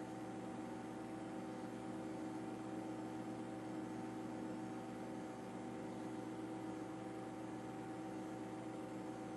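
Steady mechanical drone with several held tones over a faint hiss, unchanging throughout.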